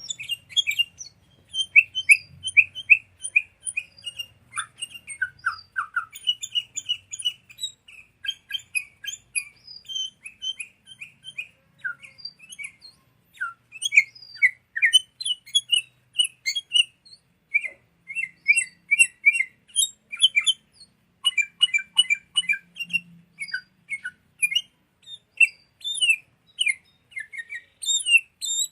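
Sooty-headed bulbul calling: rapid, busy runs of short, bright chirps and quick down-slurred notes, with brief pauses between bursts.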